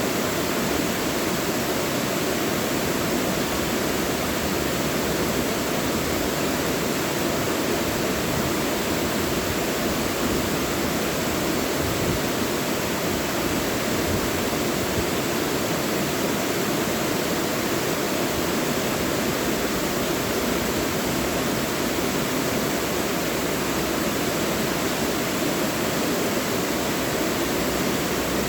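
Mountain stream rushing and splashing over rocks in a steady, even wash of water noise.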